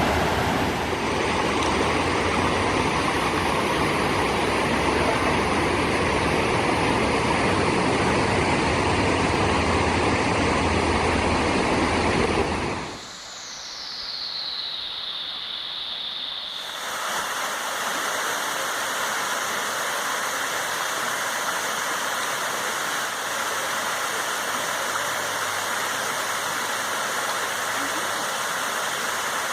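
Rushing water of a waterfall, a steady full roar. About thirteen seconds in it cuts off abruptly and a high tone glides down for a few seconds, then the rush of falling water returns, thinner in the bass.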